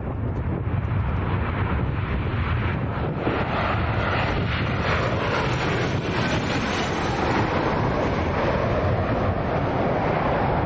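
An airliner on final approach passing low overhead, its engine noise swelling a few seconds in and then falling in pitch as it goes by. Strong wind buffets the microphone throughout.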